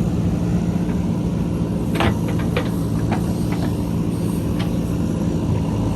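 JCB 3DX backhoe loader's diesel engine running steadily, with a few short sharp knocks about two to four seconds in.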